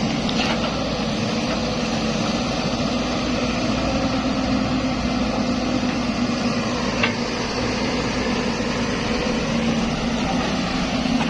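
Zoomlion excavator's diesel engine running steadily, with a single short click about seven seconds in.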